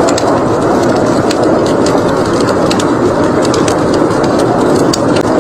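Fireplace crackling, with frequent sharp pops from the burning wood over a steady rush of blizzard wind.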